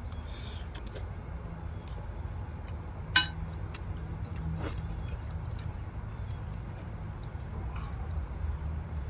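Small clinks and ticks of eating utensils against a bowl during a noodle meal, with one sharper click about three seconds in, over a steady low vehicle-like hum.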